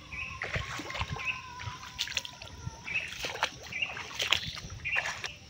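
Irregular splashing and sloshing in muddy water, a string of short uneven splashes.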